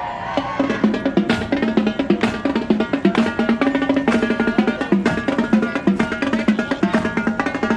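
Marching band playing, with drums striking a quick, steady beat under pitched instruments holding a tune.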